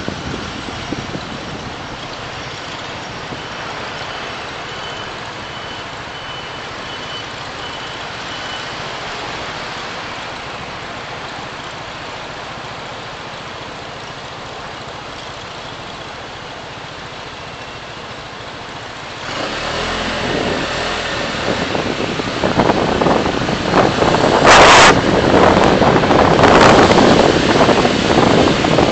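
Traffic and road noise heard from a moving car: a steady rush of tyres and engine at first, then suddenly louder about two-thirds of the way through. Several sharp, loud noises follow, the loudest about three-quarters of the way in, which the tags take for a heavy vehicle or truck.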